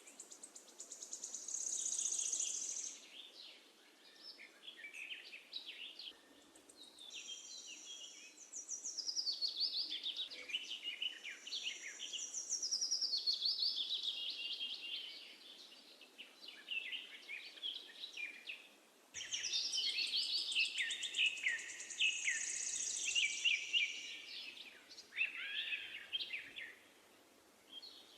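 Birdsong chorus: several songbirds singing in overlapping phrases of quick trills and falling whistles, with short lulls between bouts.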